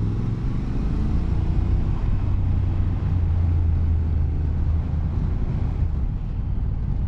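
Motorcycle engine running at a steady speed while riding, a low engine note that holds nearly constant in pitch.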